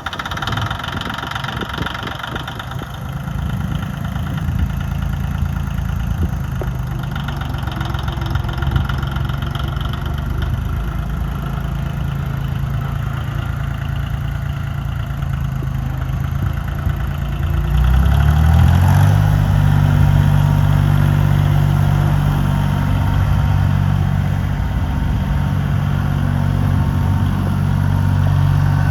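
John Deere 850 tractor's three-cylinder diesel engine running at idle shortly after starting, then revved up about two-thirds of the way through and held steady at a higher speed.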